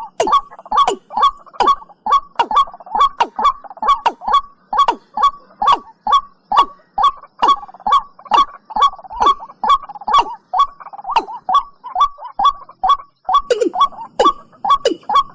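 Watercock calls repeating rapidly, about two a second. Each is a short, sharp note that slides downward, with a brief break near the end.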